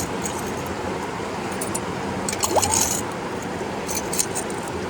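A metal crevice tool scraping and clinking against stone and gravel in a bedrock crack, in a few short scratchy bursts, over the steady rush of a river.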